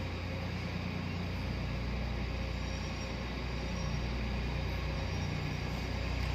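Tractor engine running steadily under load while pulling a land leveler across a field, a constant low hum.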